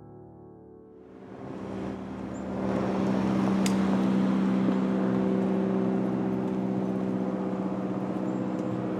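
A motor vehicle's engine running steadily with a low hum, fading in about a second in and growing louder over the next two seconds, with a single faint click partway through.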